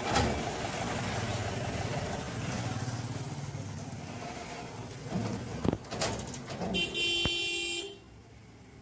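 Diesel engine running with a steady low rumble, a few sharp knocks about five to six seconds in, then a vehicle horn sounding for about a second. Near the end the engine noise drops away.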